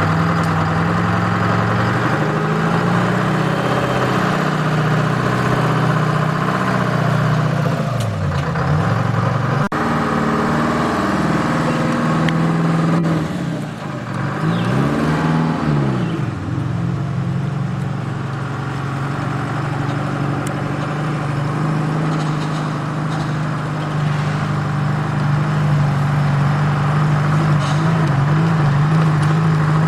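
Detroit Diesel 4-53T two-stroke turbo diesel running in a truck, its engine note steady apart from two dips in revs, about eight seconds in and around fifteen seconds in, each climbing back up.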